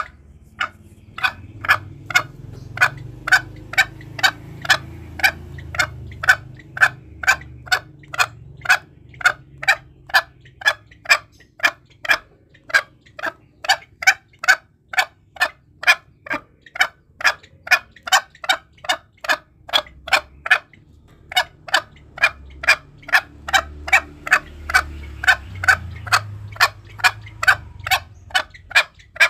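Green junglefowl calling: short sharp notes repeated very evenly about twice a second, with a brief pause about twenty seconds in. This is a lure call used to draw in wild junglefowl.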